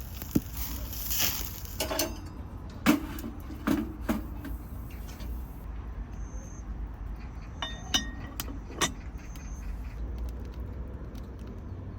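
Scattered clinks and knocks of camp cooking utensils, metal or glass, about half a dozen over the stretch, one near eight seconds in ringing briefly, over a steady low hum.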